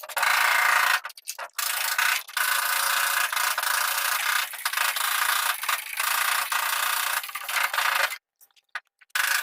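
Sanding on bodywork: a steady abrasive rub, broken by a couple of short pauses and a stop of about a second near the end.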